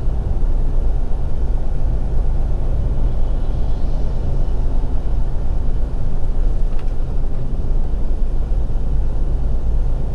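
Semi truck on the road: a steady low engine and road rumble.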